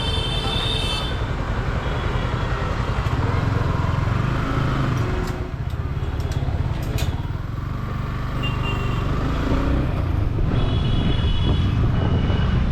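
Yamaha R15 V4 motorcycle being ridden through city traffic, its single-cylinder engine running steadily under road and traffic noise. A high steady tone, likely another vehicle's horn, sounds briefly near the end.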